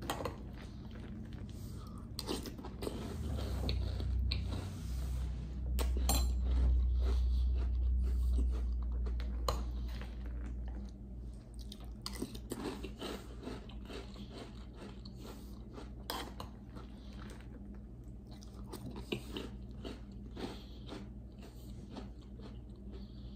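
Close-up chewing and crunching of crunchy chocolate cereal puffs in milk, with scattered sharp clicks as a metal spoon works in a glass bowl. A louder low rumble runs from about three seconds in to about eleven seconds in.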